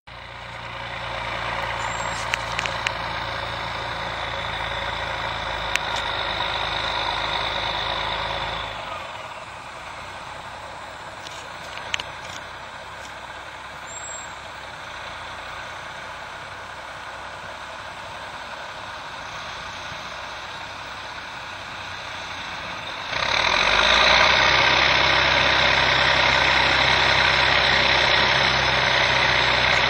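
Heavy diesel engine running steadily, dropping back to a quieter level after about nine seconds, with a few clicks about twelve seconds in. From about 23 seconds in it is much louder, as if revved or pulling hard.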